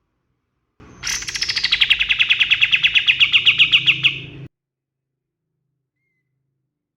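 A kapas tembak songbird sings one rapid trill of about ten notes a second. The trill slides down in pitch at first, then holds steady for about three seconds and stops abruptly.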